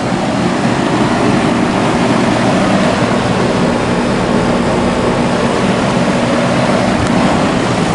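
Outdoor air-conditioner condensing units running: a steady rush of condenser fans with a low, even motor and compressor hum.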